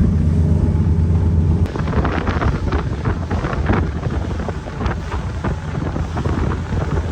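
Carbureted boat engine running steadily at cruising speed on stale fuel. About two seconds in it gives way abruptly to gusty wind buffeting the microphone, with irregular splashing.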